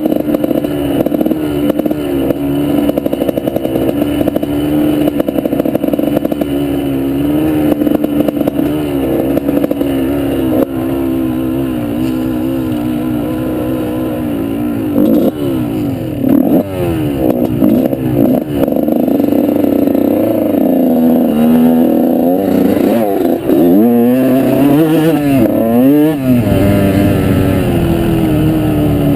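Off-road motorbike engine running under way, fairly steady at first, then revving up and down repeatedly over the second half as the throttle is worked.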